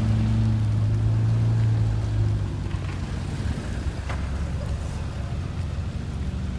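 Low, steady rumble of a vehicle engine running, dropping a little in level about two and a half seconds in.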